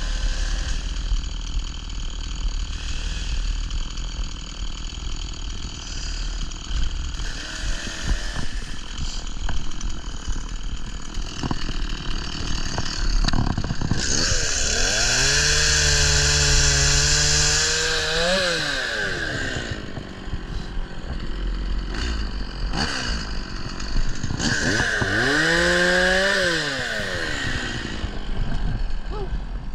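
Two-stroke chainsaw idling, then revved up to full speed twice, about halfway through and again near the end, each time held for a few seconds and let fall back to idle.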